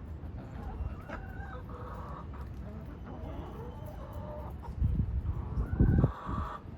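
Chickens clucking with short, repeated calls, over a low rumble, with a few loud low thumps about five and six seconds in.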